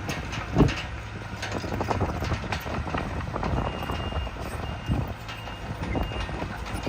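Heavy diesel earthmoving machinery running with scattered knocks and clatters, the loudest about half a second in. From about halfway, a vehicle's reversing alarm beeps steadily, about once every 0.7 s.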